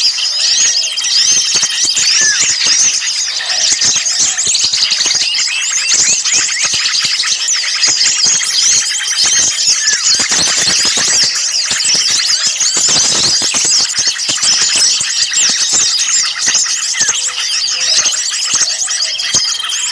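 Dense, noisy chorus of many small birds chattering and calling over one another, with rapid high-pitched chirps and short trills and a few brief held whistles: agitated small-bird calls used as a lure (pikat) to draw other birds in.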